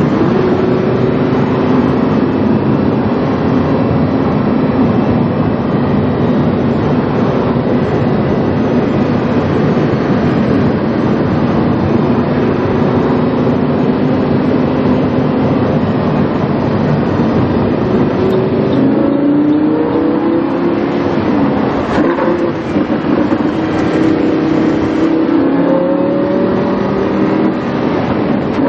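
Lamborghini Huracán's V10 engine through a PowerCraft aftermarket exhaust, heard onboard while driving: a steady cruising drone over road noise for most of the time, then from about two-thirds in the revs rise and fall several times with gear changes.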